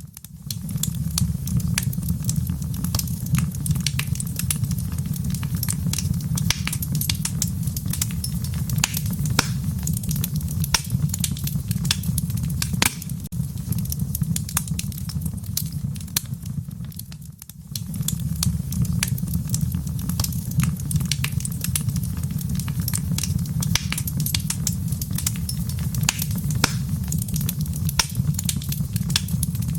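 Wood fire crackling in a fireplace: a steady low rumble of burning with frequent sharp pops and snaps.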